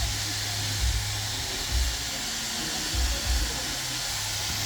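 Steady rushing noise of a moving train, with irregular low thumps every half second to a second.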